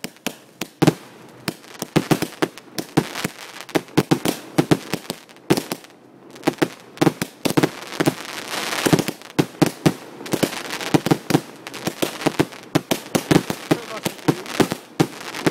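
Fireworks going off: a rapid, irregular run of sharp bangs, with a short lull about six seconds in and a denser crackling spell around the middle.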